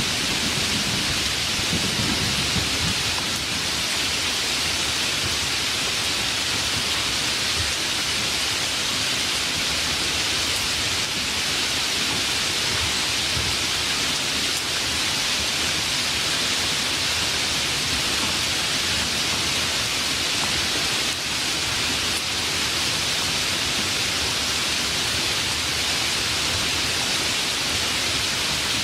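Steady heavy rain, a dense even hiss. A low rumble of thunder dies away in the first few seconds.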